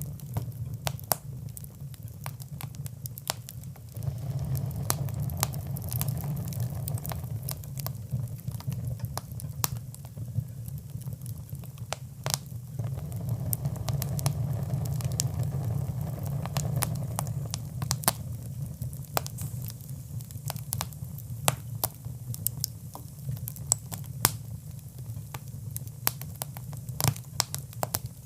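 Wood fire burning in a fireplace, crackling with many sharp, irregular pops over a steady low rumble of the flames.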